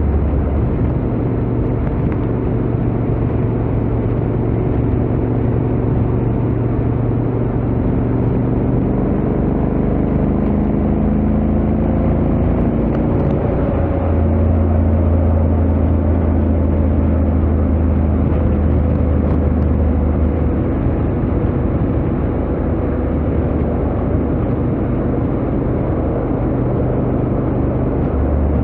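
Honda X-ADV 750's parallel-twin engine and stock exhaust running steadily at highway speed. The engine note shifts a little in pitch partway through, then holds.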